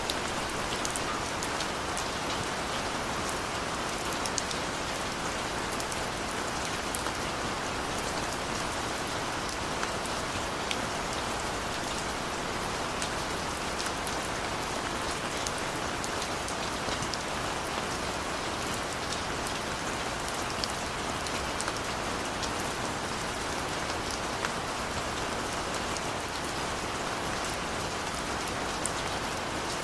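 Steady gentle rain falling, an even hiss with many small drops pattering on a surface.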